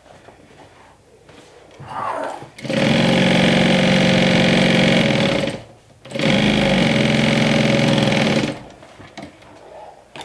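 Juki DU1181N industrial walking-foot sewing machine stitching the top seam of two pocket pieces: a brief spurt, then two steady runs of about three seconds each with a short stop between.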